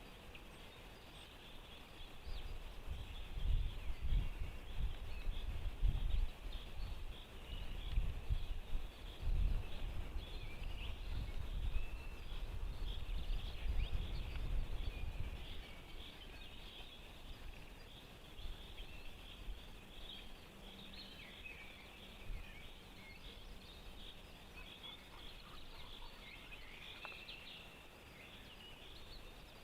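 A dense chorus of many small songbirds chirping and singing at a distance. For the first half, low irregular rumbling gusts, like wind buffeting the microphone, run underneath and then die away.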